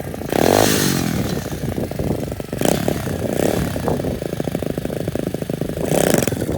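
SSR pit bike engine running with the throttle blipped hard in about four bursts, the pitch rising with each one, as the rider tries to pull a wheelie.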